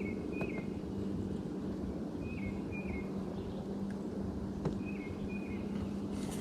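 A bird calling in short two-note phrases, each note dropping in pitch, repeated about every two and a half seconds, over a steady low hum and an outdoor background.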